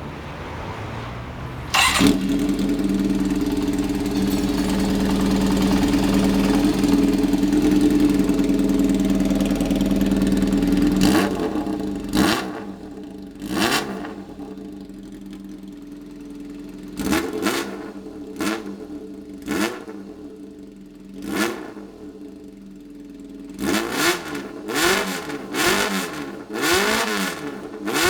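Kawasaki Zephyr 400 air-cooled inline-four through a straight, baffle-less aftermarket exhaust, very loud: it comes up to a steady run about two seconds in, holds there until about halfway, then drops to idle and is blipped repeatedly, each short rev rising and falling, faster blips near the end.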